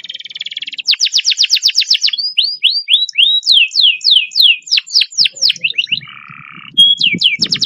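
Domestic canary singing fast rolled trills: a rapid run of about ten notes a second starting about a second in, then slower sweeping notes, a short lower buzzy note just after six seconds, and another fast trill near the end.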